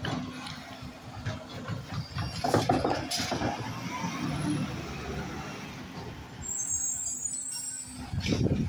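Garbage truck running on its collection route, its engine and machinery a steady low noise, with a louder burst about two and a half seconds in and another near the end.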